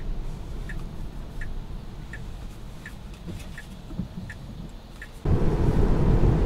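Tesla Model 3's turn-signal indicator ticking evenly, a bit over once a second, over low road rumble inside the cabin; the ticking stops after about four seconds. A little past five seconds the sound jumps suddenly to much louder driving noise.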